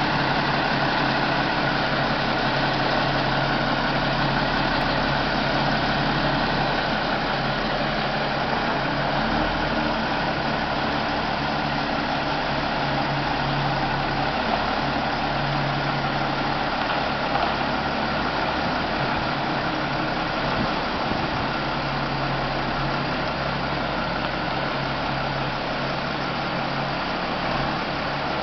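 Scania-Vabis LS76 truck's diesel engine idling steadily.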